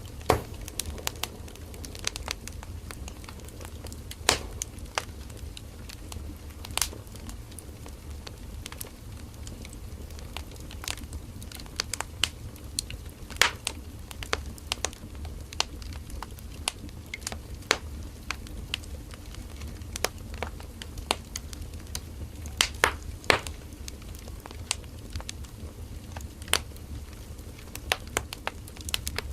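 Firewood burning in a campfire: a steady low rumble of flames with irregular sharp crackles and pops of the burning wood.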